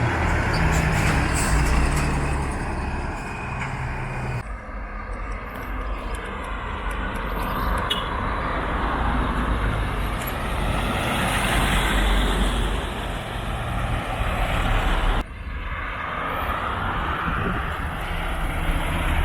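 Heavy trucks running and moving past, a low engine rumble under a noisy road haze; the sound changes abruptly twice.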